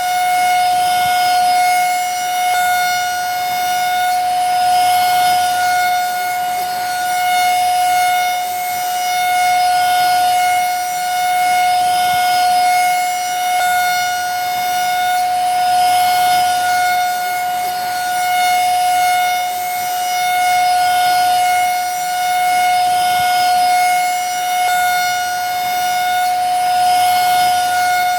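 Vacuum cleaner running continuously: a steady high motor whine over a rush of air. The level swells and eases gently about every two seconds.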